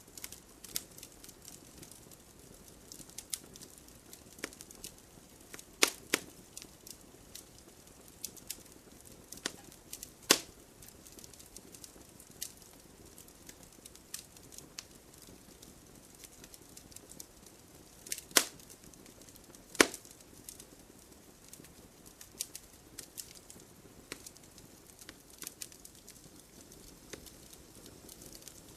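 Wood fire crackling in a fireplace: irregular sharp pops and snaps over a soft steady hiss, with a few much louder pops standing out.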